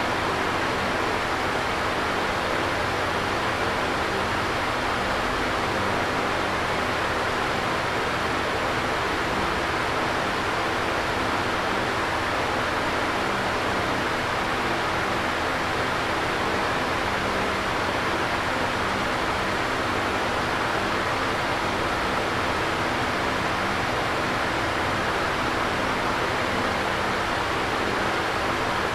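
Electric fan running steadily: an even rush of air with a faint low hum beneath it.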